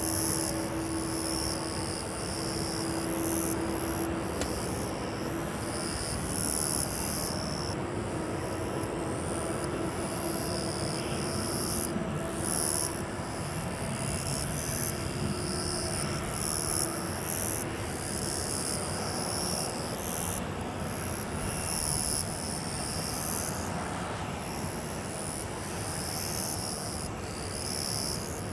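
Boeing 737-800's CFM56 jet engines running steadily, an even rushing sound with a faint tone that fades out after about four seconds.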